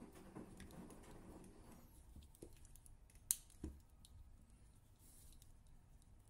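Small hand tools being handled: one sharp click about three seconds in, a duller knock just after it, and faint light clicks around them.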